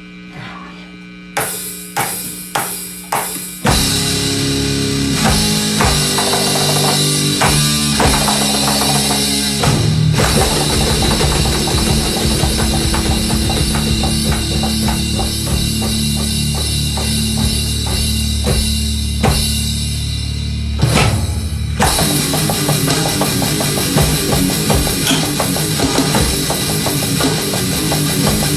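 Rock band playing live. A few separate drum hits come first, then the full band comes in about four seconds in with drum kit and a heavy, sustained bass line. There is a short stop about three-quarters of the way through before the band resumes.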